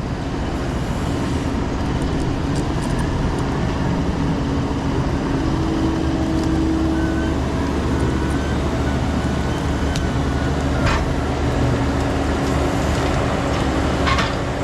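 Diesel engine of a Kubota SVL97 compact track loader running steadily under load while it pushes a tree stump, with two brief knocks near the end.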